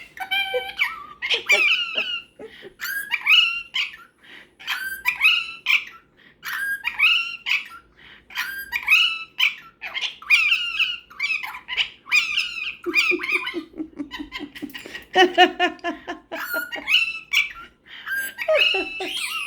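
Superb parrot mimicking speech: a string of short chirpy two-syllable calls, often in pairs about once a second, like its repeated "cookie, cookie". About two-thirds of the way through comes a run of quick repeated notes, the bird's imitation of a human laugh.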